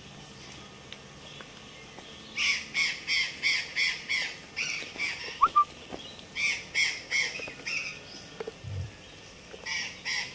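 A bird calling in three bouts of short, harsh squawks repeated about three times a second, with two brief sharp notes between the first two bouts.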